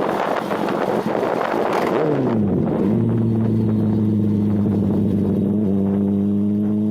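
Sport motorcycle engine under way with wind rushing past. About two seconds in the engine note falls as the throttle is rolled off and the wind noise dies away, and then the engine settles into a steady, even hum.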